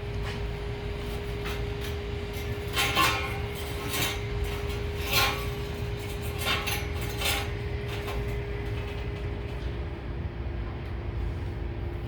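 A handful of short metallic clinks and knocks, as of steel pieces being handled, over a steady humming drone.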